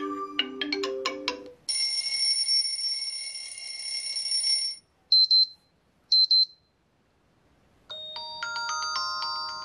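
Xiaomi POCO M3 smartphone's built-in alarm tones previewed one after another. A mallet-like melody ends about a second and a half in, then a steady electronic ringing tone for about three seconds, then two loud, short high double beeps, a brief pause, and a new chime-like melody starting near the end.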